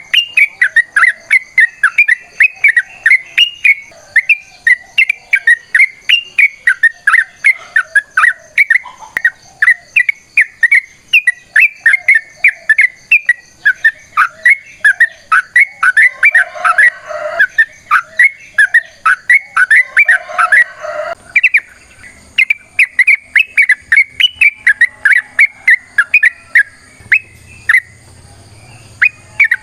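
Yellow-vented bulbul singing a long, fast run of short chirping notes, about four a second, with no pause in the phrase.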